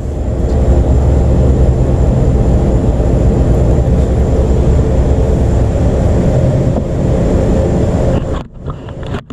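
An engine running steadily, with a deep, even hum that builds up over the first second and cuts off sharply about eight and a half seconds in.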